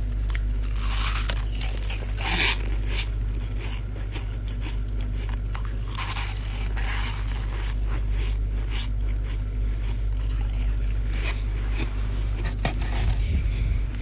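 Chest-freezer frost being scraped loose and crunched between the teeth, in irregular bursts of crisp scraping and crackling crunches, over a steady low hum.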